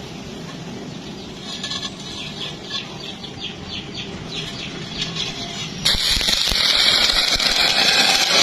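Stick welding: a low hum with light, rhythmic scratching for the first few seconds, then about six seconds in a loud, steady crackling hiss of the welding arc starts and holds.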